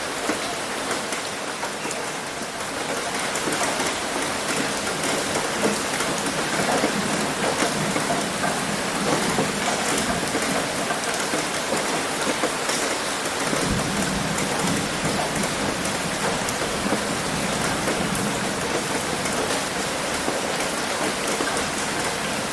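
Heavy rain hitting a roof: a steady dense hiss of many drop impacts. A low rumble joins about two-thirds of the way through.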